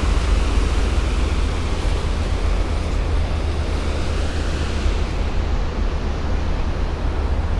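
Sea surf, a steady rushing noise, with wind rumbling on the microphone.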